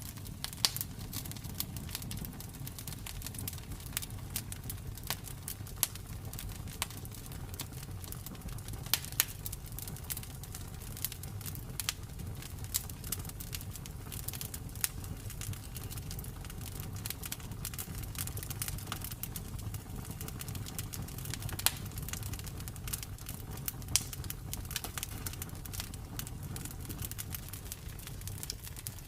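Campfire burning: wood crackling in irregular sharp snaps, with a few louder pops, over a low steady rumble.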